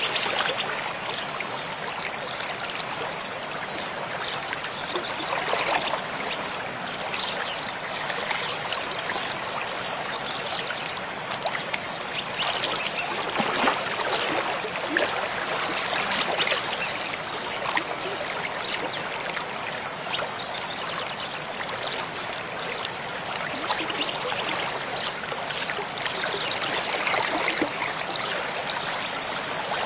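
Mountain stream flowing: a steady rush of running water with small splashes and gurgles throughout.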